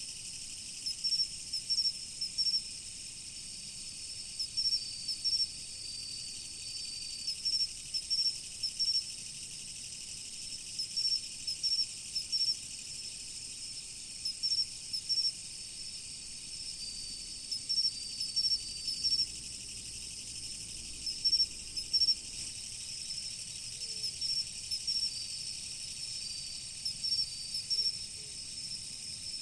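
Autumn insects chirping, mostly crickets. One chirps in quick clusters of short, high notes every second or two, now and then a longer trill sounds just below it, and a steady, high ringing chorus of many others lies underneath.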